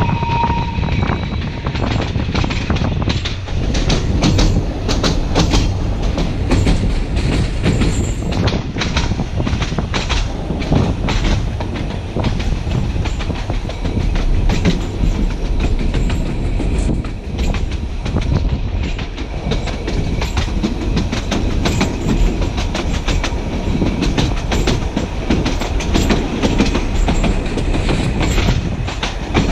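Narrow-gauge (760 mm) passenger train running uphill, its wheels clicking over rail joints over a steady rumble of running noise.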